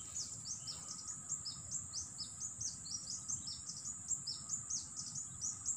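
A bird chirping rapidly: a continuous run of short, high notes, each falling in pitch, about five a second. Beneath it, a steady high hiss and the low rush of a fast-flowing, flooded river.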